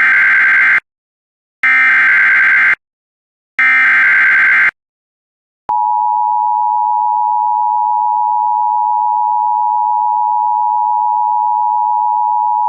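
NOAA Weather Radio alert opening: three roughly one-second bursts of digital SAME header data, then, about six seconds in, the steady 1050 Hz warning alarm tone, signalling a severe thunderstorm warning.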